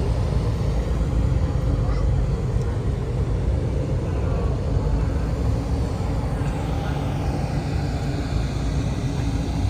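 Engines of cars and trucks running in street traffic, a steady low rumble, with a vehicle passing by about two-thirds of the way through.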